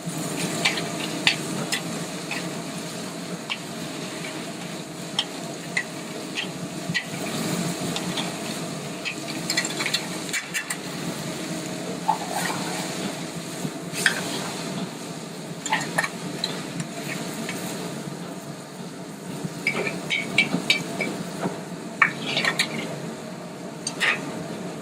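Spinach wilting in a hot skillet with butter, olive oil and garlic: a steady sizzle, with frequent short clinks and scrapes of a utensil stirring against the pan, over a steady kitchen hum.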